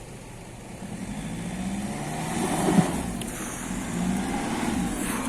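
Nissan Patrol Y61 off-roader's engine revving up under throttle, growing louder from about a second in, with one sharp knock near the middle.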